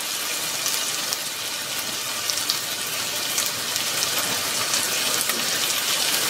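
Chopped onion, garlic, ginger and Thai chilies sizzling in oil in an enamelled cast-iron pot: a steady hiss with many small crackles and pops.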